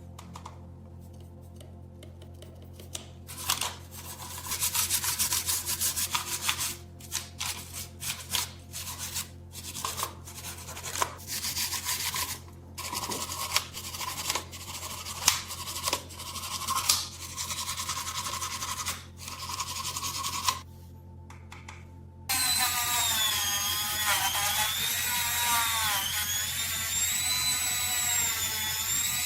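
Irregular rubbing or scrubbing strokes, stopping briefly now and then. About two-thirds of the way in a small power tool starts and runs steadily, its pitch wavering up and down as it works.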